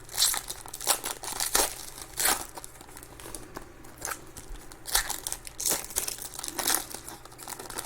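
Plastic trading-card packaging crinkling and tearing as it is handled and opened by hand, in irregular rustling bursts.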